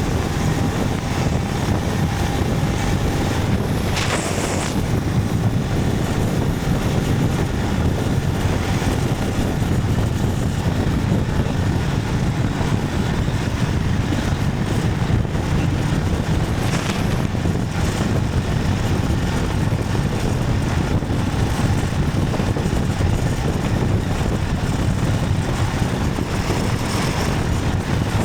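Motorcycle riding steadily: a constant low rumble of engine, road and wind on the microphone, with a brief hiss about four seconds in and two fainter ones later.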